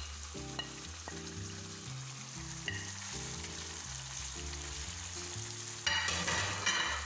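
Chicken karahi curry sizzling steadily in a karahi pan. There is a louder burst of sizzling noise about six seconds in, lasting under a second. Soft background music with held notes plays underneath.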